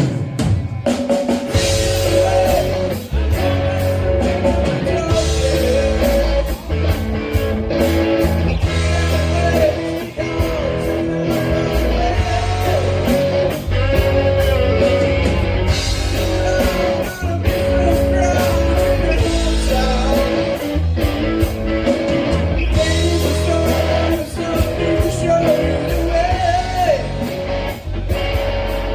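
A rock band playing, with drum kit, bass and electric guitar, and singing over a steady beat.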